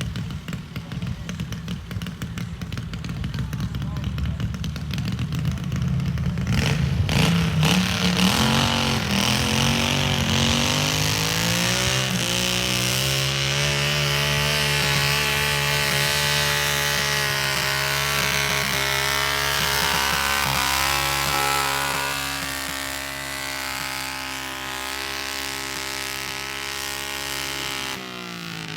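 Modified pulling tractor's engine under full throttle. It runs low and rough at first, then revs up steadily, with a few sharp cracks about a quarter of the way in. It holds a high, steady pitch under load, eases off slightly about three-quarters through, and drops back near the end.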